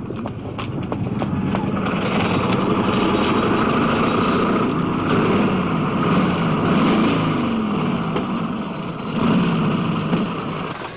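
Car engines running hard at speed, their pitch rising and falling as they rev, as in a road chase.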